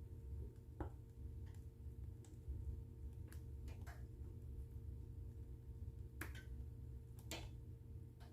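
Wood fire in a fireplace crackling: scattered sharp pops and snaps at irregular intervals, the loudest two about six and seven seconds in, over a steady low rumble.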